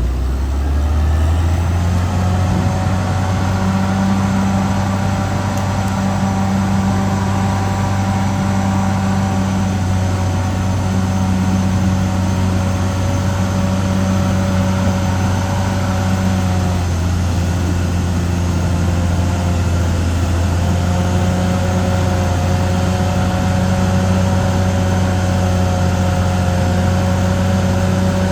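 Caterpillar D6R XL bulldozer's diesel engine running steadily, its pitch rising over the first second or two. A little past halfway the pitch sags briefly, then comes back up.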